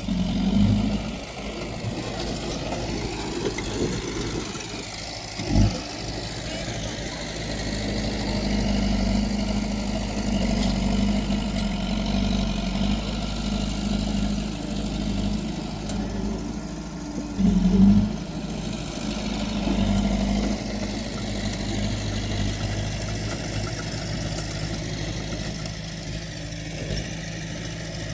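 Diesel engine of heavy earthmoving equipment running steadily, its level rising and falling, with a sharp knock about five and a half seconds in and a brief louder surge near the two-thirds mark.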